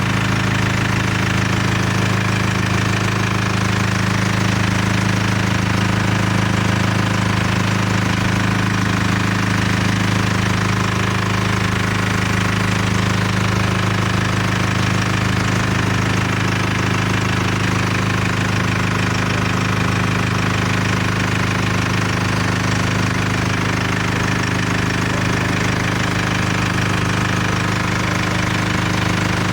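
Mercedes-Benz B 180 CDI's four-cylinder common-rail diesel engine idling steadily, with the ordinary diesel rattle of a running engine.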